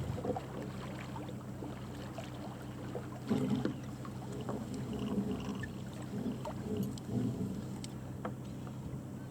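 Hanse 411 sailing yacht under way: a steady low hum with water washing along the hull, and a few small knocks and clatters on board.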